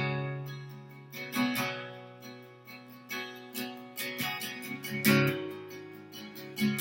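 Acoustic guitar strumming sustained chords, with a strong strum about every second or so, each left to ring and fade.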